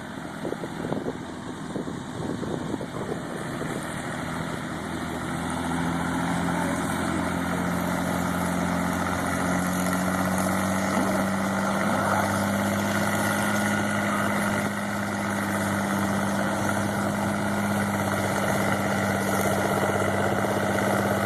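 Pulling tractor's engine running steadily. It grows louder over the first several seconds, then holds, its pitch creeping slowly upward.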